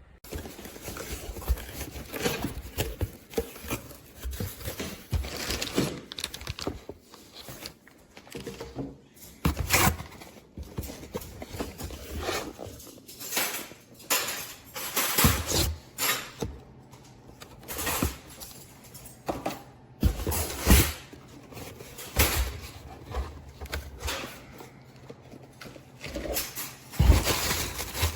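Handling noise: irregular clicks, knocks and rustling close to the microphone, with several louder knocks spread through.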